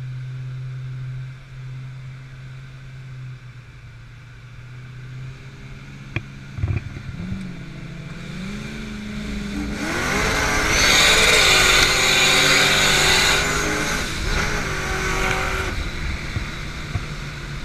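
Drag-race cars, a turbocharged Hemi Conquest and a supercharged Ford Fairlane, idle steadily, then give two sharp pops. Their engines then rev up with rising pitch as they launch and accelerate, swelling to their loudest for a few seconds before fading away.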